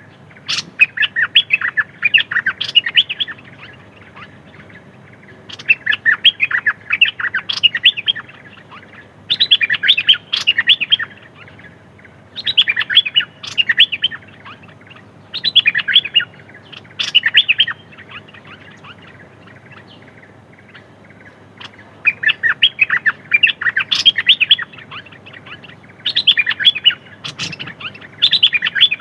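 A songbird singing in repeated bursts of rapid chirping notes, each burst lasting two to three seconds with short pauses between, and a longer pause of about four seconds past the middle.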